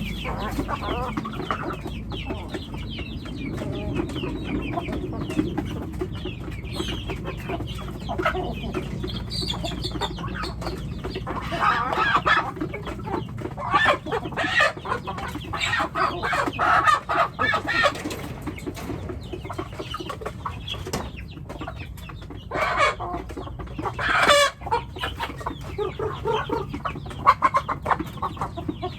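Chickens clucking and calling without pause, with several louder calls in the middle and near the end.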